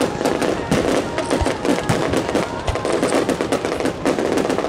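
Aerial fireworks bursting overhead: a dense, continuous crackle of many small shells and sparks going off in quick succession, with a couple of deeper booms from larger shells.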